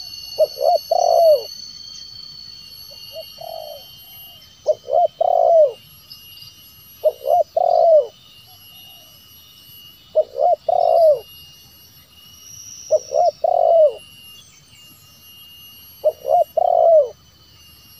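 Spotted dove cooing: a short phrase of three or four low hooting coos repeated about every two to three seconds, six or seven times, over a steady high-pitched drone.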